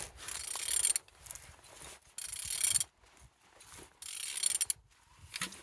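Hyundai G4GC four-cylinder engine being turned over by hand with a wrench: four strokes about one and a half to two seconds apart, each a short burst of mechanical rasping. The engine turns freely.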